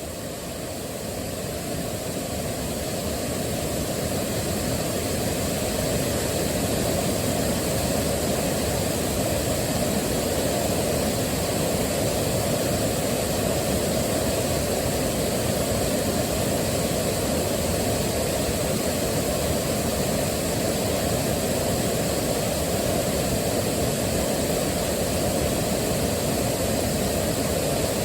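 Waterfall: a steady rush of falling water, deep and even, fading in over the first few seconds and then holding level.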